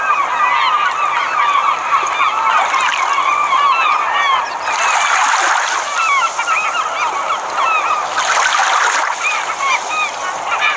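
A flock of swans calling together: many short honking calls overlap without a break. Twice a rushing noise swells up under the calls.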